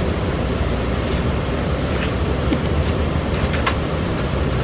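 Steady rumble and road noise of a moving vehicle, with a few sharp clicks or rattles around the middle.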